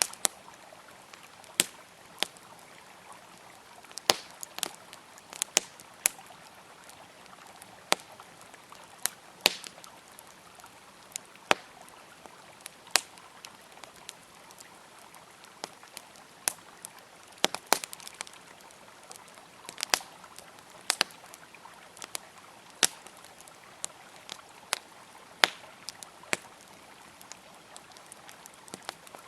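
Wood campfire crackling, with irregular sharp pops scattered throughout, over the steady rush of a flowing river.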